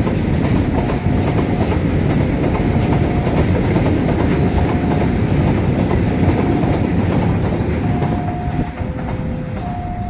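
Pertamina tank-wagon freight train rolling past, a steady rumble with clacking wheels that eases near the end as the last tank wagon goes by. Over it a level-crossing warning tone sounds every second or two, switching to two alternating pitches near the end.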